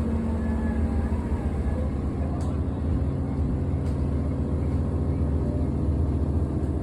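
JR Hokkaido H100 DECMO diesel-electric railcar's engine running, a steady low hum.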